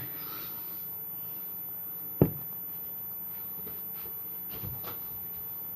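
A single sharp knock about two seconds in, then a few faint light taps, over quiet room tone.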